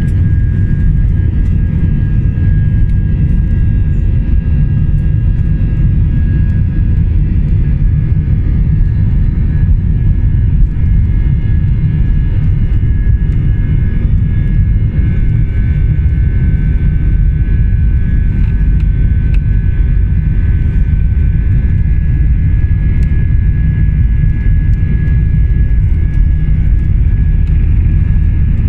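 Inside the cabin of an Airbus A320: the jet engines running steadily at high power, a loud, heavy low rumble with a steady whine on top, as heard during takeoff or the climb.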